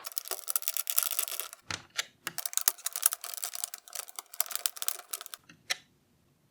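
Rapid, dense clicking and clattering of small plastic parts from the transparent engine model kit. It stops abruptly about five seconds in, followed by one last click.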